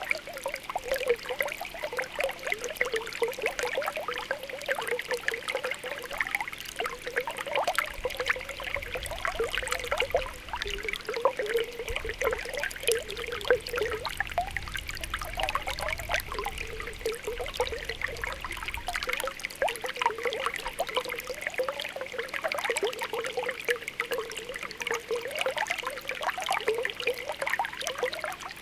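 Spring water welling up from the ground, making a continuous bubbling trickle full of small popping bubbles.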